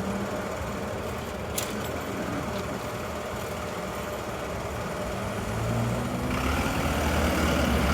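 Seibu 9000 series electric train running, a steady rumble with one sharp click a little over a second in. From about five and a half seconds in, a motor whine rises in pitch and the sound grows louder.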